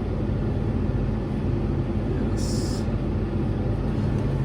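Self-propelled crop sprayer's engine running with a steady low drone.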